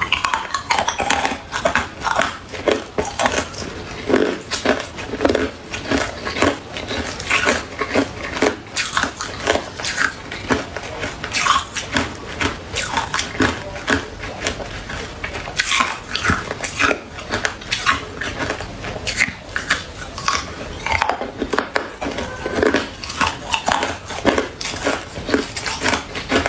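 Close-miked biting and chewing of hard ice: a rapid, irregular run of sharp crunches as the cubes crack and are ground between the teeth.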